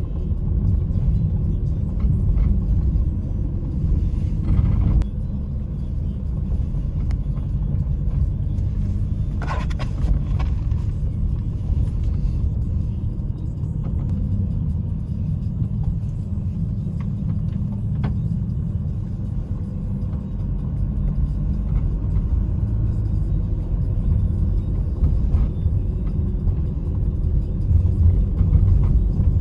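A vehicle driving, heard from inside the cabin: a steady low rumble of road and engine noise.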